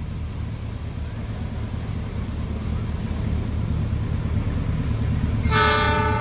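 Diesel locomotive engine of an approaching train, growing steadily louder, then its horn starts blowing about five and a half seconds in.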